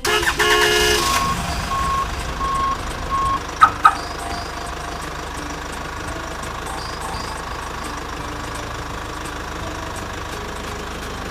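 Construction-vehicle engine running steadily, with a brief chime at the start, a series of evenly spaced reversing beeps over the first few seconds, and two sharp clicks close together about four seconds in.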